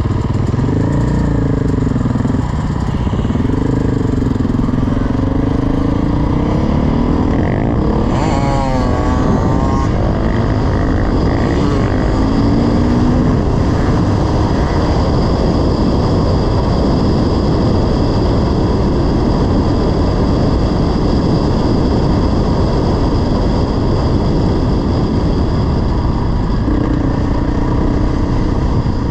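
Dirt bike engine running while riding. Its revs rise and fall through the first several seconds, waver quickly about eight seconds in, then hold fairly steady. A steady rush of noise runs underneath.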